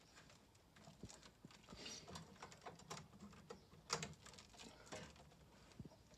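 Faint, irregular clicks and rustles of wiring and plastic plug connectors being handled, with one sharper click about four seconds in.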